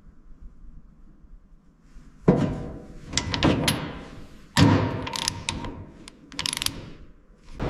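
Sharp metallic clanks and clicks of hand tools working on metal parts, coming in several bursts from about two seconds in, the loudest hits near two and a half and four and a half seconds.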